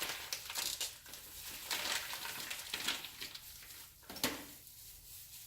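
Irregular rustling and crinkling of a plastic-wrapped package of raw chicken breast being pulled open and handled, with one sharp knock about four seconds in.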